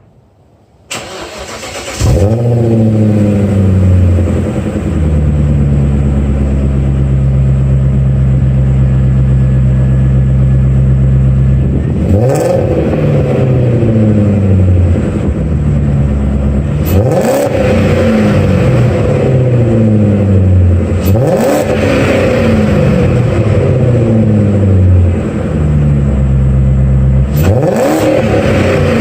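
BMW M62TU V8 in an E30, exhaust through Garagistic headers, twin 2.5-inch pipes and cats into a Y-pipe, a 3-inch pipe and a Magnaflow muffler. It is cranked and catches about two seconds in with a flare of revs, then settles to idle. It is revved four times, each rev rising sharply and dropping back to idle.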